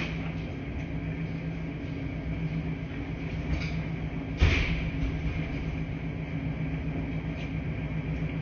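Laundry machines running with a steady low hum and whir. There is one loud thump about four and a half seconds in.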